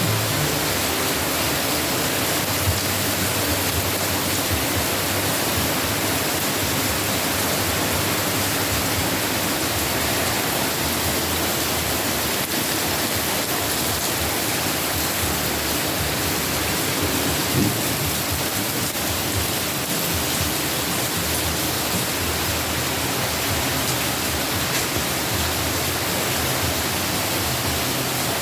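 Steady rainfall, an even hiss that holds without a break, with a single faint knock about two-thirds of the way through.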